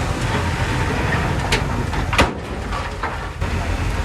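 Crawler bulldozer's diesel engine running steadily, with a few sharp knocks about one and a half to three seconds in, the loudest a little past two seconds.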